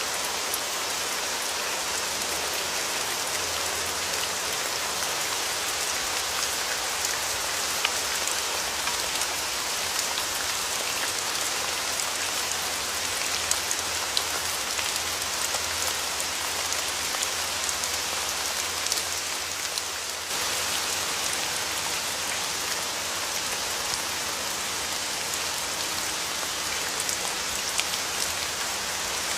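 Steady rain falling, a dense hiss with many individual drops ticking sharply on a hard surface, with a brief dip about two-thirds of the way through where the recording appears to be joined.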